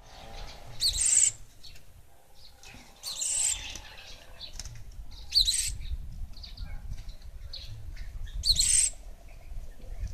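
Gelatik wingko bird calling: four short, loud, high chirping calls, each about half a second long, repeated every two to three seconds.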